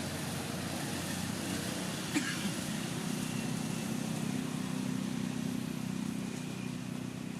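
A motor vehicle's engine running steadily, with a low, even hum. There is one short click about two seconds in.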